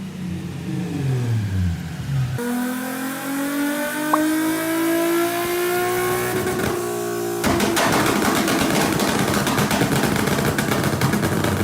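Nissan 370Z's 3.7-litre V6 exhaust. For the first two seconds the revs fall. Then the engine pulls steadily, its pitch rising slowly for about five seconds, and from about seven seconds in it gives way abruptly to a harsher, crackling full-throttle sound full of sharp pops.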